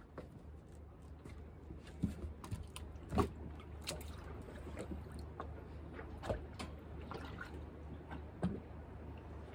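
Irregular small knocks and clicks, a few of them louder, over a steady low hum.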